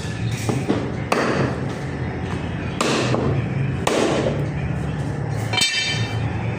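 Cleaver chopping mutton on a butcher's block: several heavy chops at uneven intervals, with a short ringing tone near the end.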